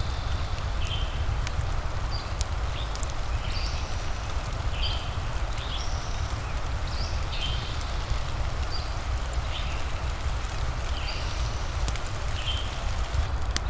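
Mixed ambience of steady rain and a crackling fire, with a deep constant rumble and scattered sharp crackles. Short high chirps repeat about once a second over it.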